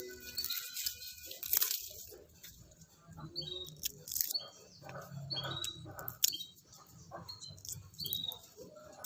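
A small bird chirping in short, high, slightly falling calls repeated about once a second, over scattered rustling and clicks.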